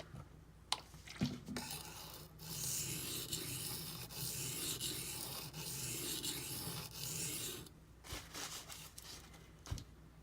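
A D2 steel knife blade being stroked across a silicon carbide sharpening stone: a continuous scraping hiss for about six seconds, starting about a second in, with short breaks between strokes. A few light knocks come before and after.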